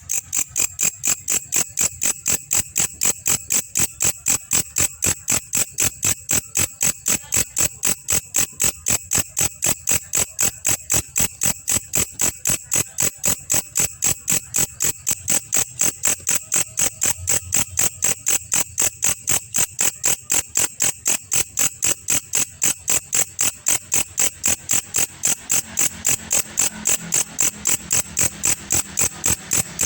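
Belalang kecek katydid calling: a steady, unbroken series of sharp, high-pitched chirps, about three a second.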